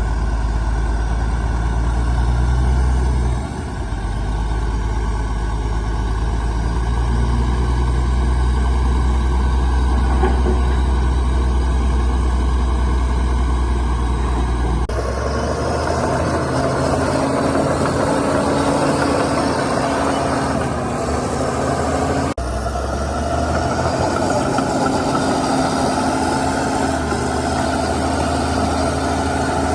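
Heavy diesel engines of earthmoving machines running steadily with a deep rumble. The sound changes abruptly about halfway through and again about three-quarters through.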